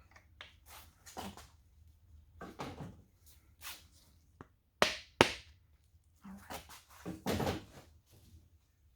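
Metal main bearing caps being handled and seated on a Toyota 4A-GE engine block: scattered clinks and scrapes, with two sharp metallic knocks about five seconds in.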